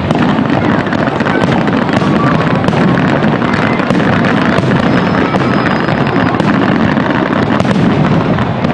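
Fireworks display in a dense, continuous barrage: shell bursts overlapping with steady crackling and no gaps between them.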